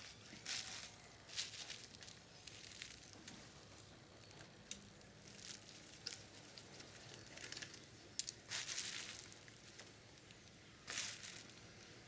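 Faint scraping, rustling and small sharp clicks of hands and tools working on a cassette recorder's mechanism, in irregular short bursts with a few crisp clicks about eight seconds in.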